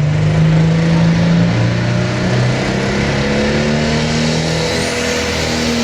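International 1066 Light Pro Stock pulling tractor's turbocharged diesel engine running loud at high revs, its pitch stepping up about halfway through.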